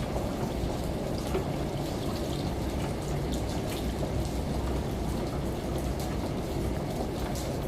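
Continuous layered water noise: rain with scattered drip ticks and a running shower, over a steady low washing-machine rumble.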